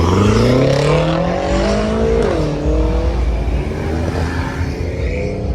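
Car engine accelerating hard, its pitch climbing for about two seconds, then dropping sharply about two seconds in before it runs on at a lower pitch.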